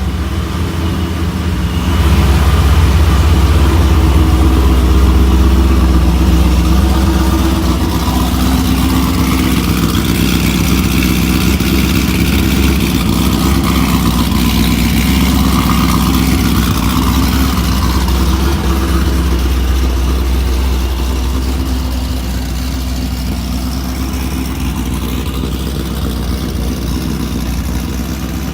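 Supercharged 6.0-litre V8 of a Pontiac G8 GT with a small custom cam, idling high at close to 1,000 rpm through a loud 3-inch cat-back exhaust with no cats or resonators. It gets louder about two seconds in and eases down slowly toward the end.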